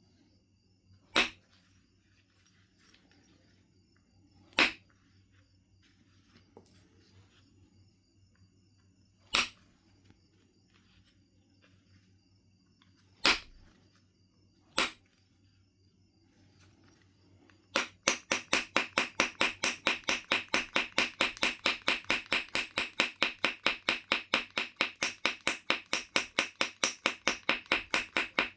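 Knife River Flint being knapped: five sharp single clicks of flakes coming off, several seconds apart. From about eighteen seconds in, a fast, even run of short strokes on the stone, about four a second, lasting to the end.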